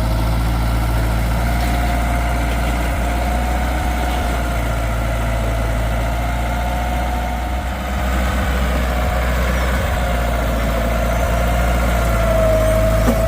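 Cummins diesel pickup engine running steadily: a constant low drone with a faint, slowly wavering whine above it.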